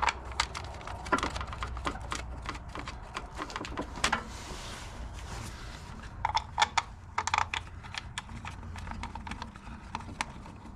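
Scattered light clicks, clinks and taps of small metal parts and bolts being handled, with a denser run of sharper taps a little past halfway and a short rubbing sound before it, over a steady low hum.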